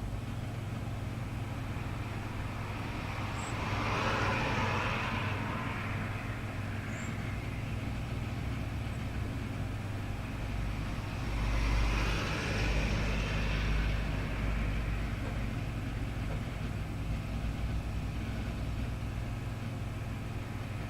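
Road traffic in the background: a steady low hum with vehicles passing twice, the first about four seconds in and a longer, louder one about eleven to fourteen seconds in. Two faint, very short high chirps come in the first seven seconds.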